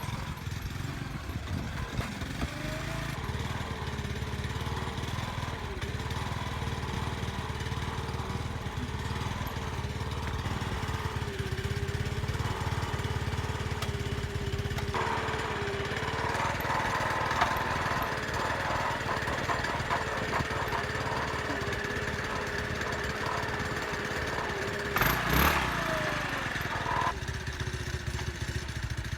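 1985 Honda Elite 250 scooter's engine running steadily, its pitch wavering slightly, with abrupt changes in sound about halfway through and again near the end.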